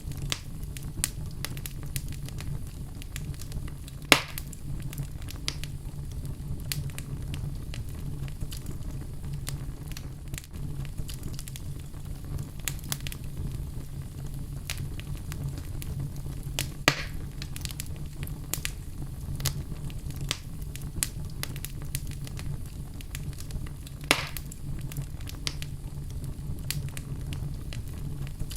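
Wood fire burning in a fireplace with a steady low rumble and frequent crackles, loud pops standing out at about 4, 17 and 24 seconds.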